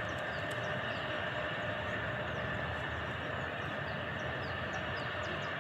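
Steady droning hum over a hiss, unchanging throughout, with faint short high chirps scattered through it.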